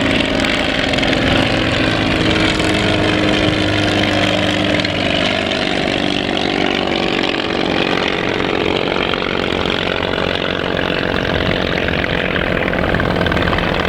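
Small engine of a vintage light aircraft running with its propeller, a steady buzzy note whose pitch shifts a little partway through.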